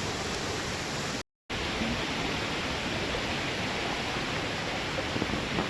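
Steady rush of flowing stream water, an even noise with no pauses, cut off for a moment about a second in.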